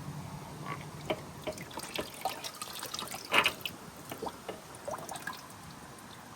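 Water in an electrolysis vat dripping and splashing in a string of small, irregular drips, the loudest about three and a half seconds in, thinning out near the end.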